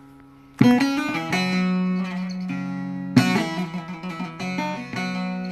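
Bağlama (saz) played solo in a free, improvised style. Three hard strums, about half a second in, past the middle and near the end, each ring on into held drone notes with short melodic runs between them.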